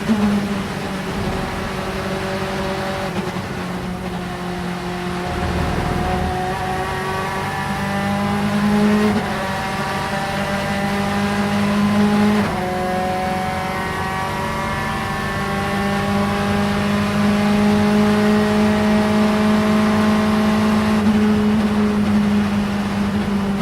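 Vauxhall Vectra Supertouring race car engine under hard load, its pitch rising steadily through each gear and dropping at each upshift, about four shifts, with the longest pull near the end.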